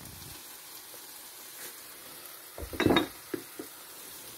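Chicken and broccoli sizzling in a hot metal pot as a wooden spatula stirs them. A louder clatter of the spatula against the pot comes about three seconds in, followed by a couple of lighter taps.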